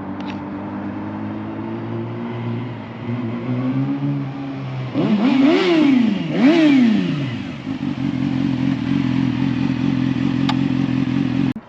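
Motorcycle engine idling steadily, blipped twice in quick succession about five seconds in, each rev rising and dropping back to idle within about a second.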